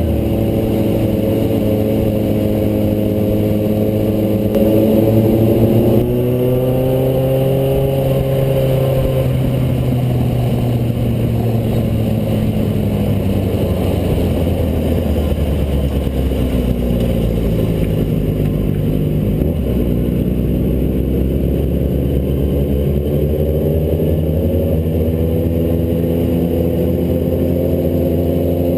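Motorcycle engine running steadily loud; its pitch sinks slowly over about ten seconds, then climbs back up through the second half as the revs rise again.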